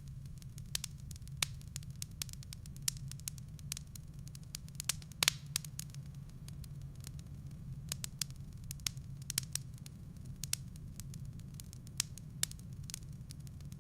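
Wood fire in a fireplace crackling, with irregular sharp pops and snaps, one louder pop about five seconds in, over a steady low hum.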